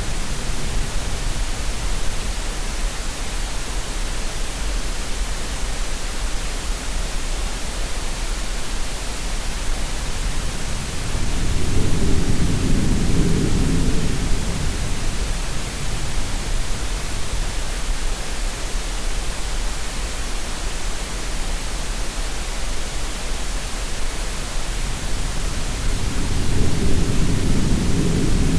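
Steady green noise hiss mixed with sea sounds: deep swells of surf rise and fall twice, about fifteen seconds apart.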